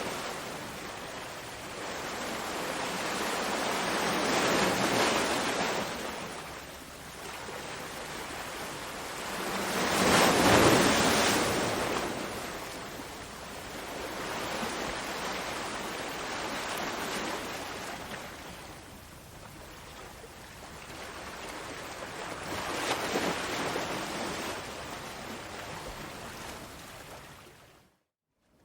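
Ocean waves breaking and washing up the shore, swelling and fading every few seconds, with the biggest wave about ten seconds in. The sound cuts out briefly near the end.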